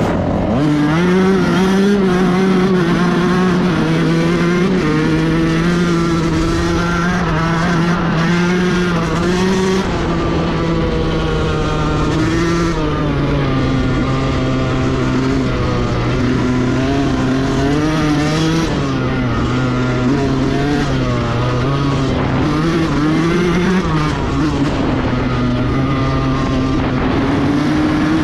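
Yamaha YZ125 two-stroke single-cylinder dirt bike engine being ridden, its revs rising and falling continuously through throttle and gear changes.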